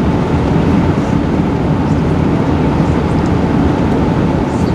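Steady low rumble and hum inside the cabin of an Airbus A380 taxiing on the ground, with engine and air-system noise and no distinct events.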